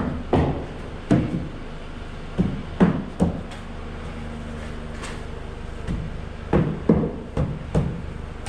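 About a dozen irregular knocks and thumps as packed snow is knocked off, over a steady low hum.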